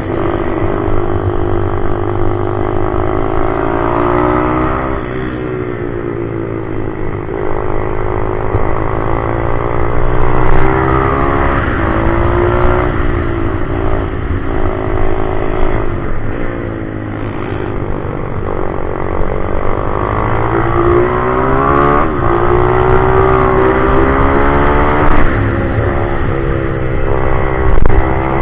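Pit bike's small single-cylinder four-stroke engine being ridden hard: its note rises and falls over and over as it is revved out and backed off, with several sudden drops in pitch.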